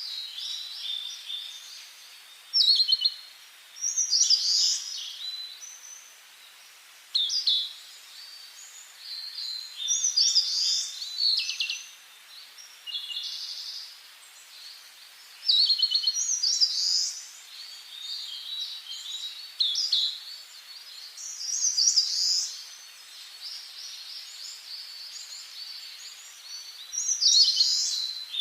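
Songbirds singing short, high, fast phrases that repeat every two to three seconds, over a steady faint hiss.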